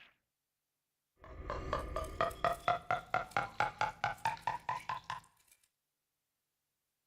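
An animal call: a rapid run of short pitched pulses, about six a second, lasting about four seconds and then stopping abruptly.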